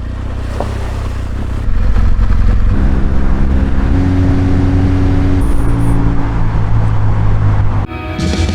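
BMW R1200GS Adventure motorcycle engine running. It gets louder about two seconds in and its note steps up as the bike pulls. Music with guitar cuts in near the end.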